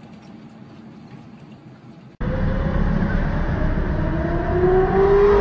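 Faint road noise inside a moving car for about two seconds, then an abrupt cut to loud car engines running on a race track, with an engine note rising slowly in pitch toward the end.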